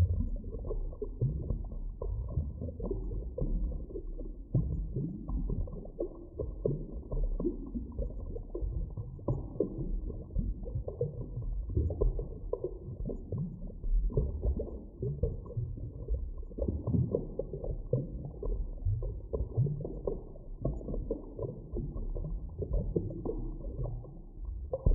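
Underwater ambience: a continuous, muffled low rumble with many irregular short pops and surges.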